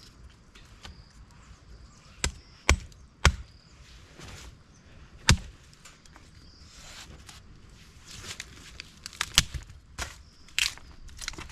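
Irregular sharp chopping strikes, like a blade or hatchet cutting wood: a few single blows spaced out in the first half, then a quicker run of blows near the end.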